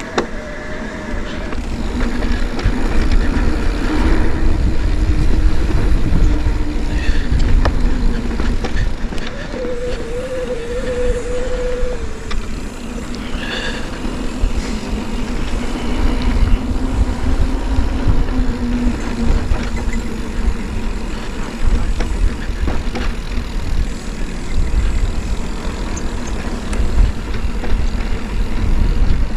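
Wind buffeting the microphone over the rumble and rattle of a mountain bike riding a rough dirt trail.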